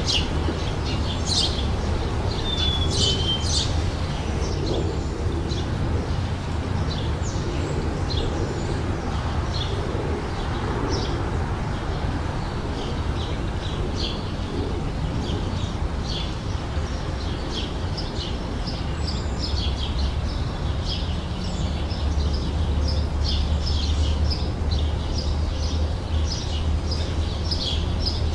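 Small songbirds chirping and singing, many short high calls following one another, over a steady low rumble.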